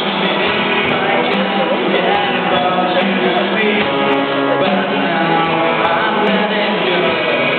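School band playing a rock song live: guitars, with a voice singing over them.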